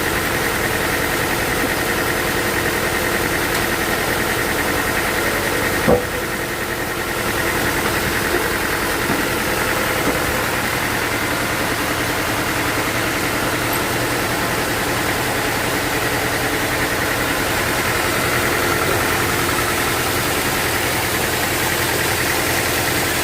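Sawmill engine running steadily at a constant speed, with a single sharp knock about six seconds in.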